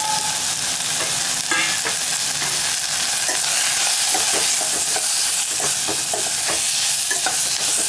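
Onions and tomatoes with ground spices sizzling in hot oil in a stainless steel pot, with a metal spoon stirring and clinking against the pot in short, irregular knocks.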